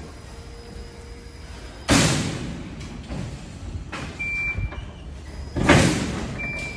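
Delivery truck sounds: two loud sudden bursts about four seconds apart, each dying away over about a second, with a short high beep after each.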